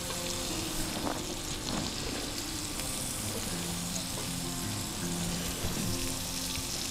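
Food frying on a Muurikka griddle pan, with a steady sizzle.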